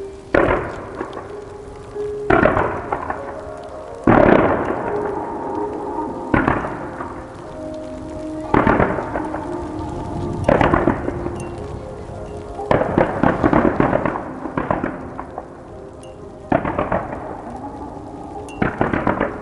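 Aerial fireworks shells bursting in a steady series, about one boom every two seconds, each a sharp bang trailing off into a long rolling echo.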